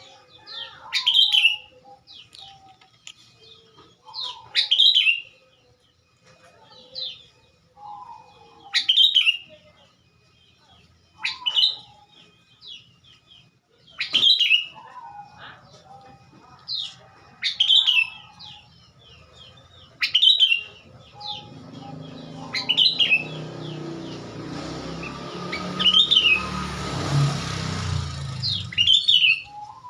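Sooty-headed bulbul (kutilang) calling over and over: about ten loud, sharp calls two to four seconds apart, with softer chirps between them. About two-thirds of the way through, a rushing noise swells up beneath the calls and fades near the end.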